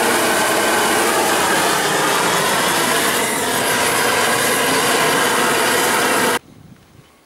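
Gas roofing torch burning at full flame off a high-pressure regulator: a loud, steady roar that cuts off abruptly near the end.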